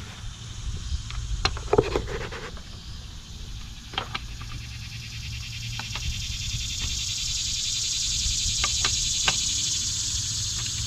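Scattered light clicks and knocks of hand tools and wheel hardware during reassembly of a car's wheel, over a steady low hum. A high insect buzz, likely cicadas, swells up in the second half.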